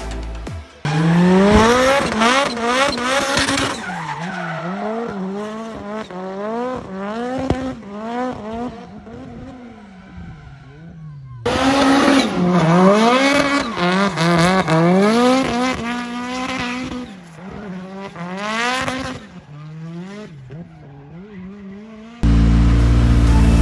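Drift car engine revving up and down over and over as the car slides, with tyres squealing. The sound cuts off suddenly about halfway through and resumes with a second run.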